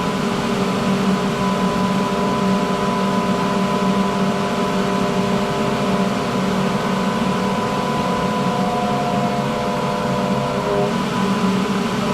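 Inline duct extractor fan, the cheap grow-room type, running steadily at speed: an even whir with a hum of several steady tones. Near the end some of the tones drop away and one begins to fall in pitch.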